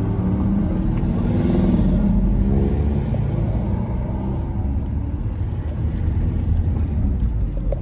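Car engine running over a steady road rumble, its note rising a little about a second and a half in, then holding steady.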